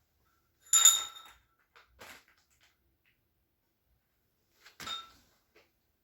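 Metal shelving parts clanking together: a loud clank with a short metallic ring about a second in, a softer knock a second later, and a second ringing clank near the end.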